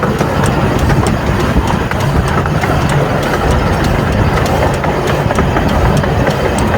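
Train running on rails: a steady rumble with light clicks from the wheels and track, two or three a second.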